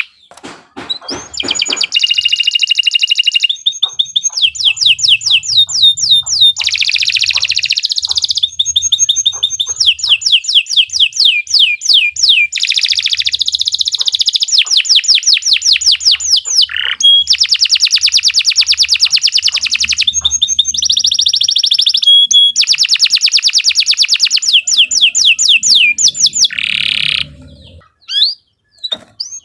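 Domestic canary singing a long continuous song of fast trills: runs of rapidly repeated notes that switch to a new trill every second or two, with short breaks near the start and again near the end.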